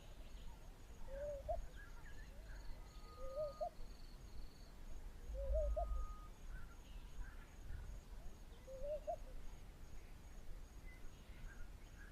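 Bush ambience: a bird repeats a short, low, rising call about every two seconds. Over it runs a faint, high, evenly pulsing insect-like buzz.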